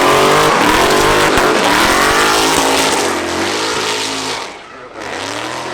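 Race car engine at high revs, its pitch climbing and dropping as it accelerates and changes gear. It fades about four and a half seconds in, and a quieter engine note follows.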